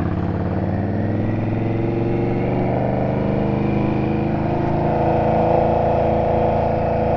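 Indian Scout V-twin engine running, first at a low pulsing idle, then pulling away with its pitch rising gradually from about a second in and holding steady after that.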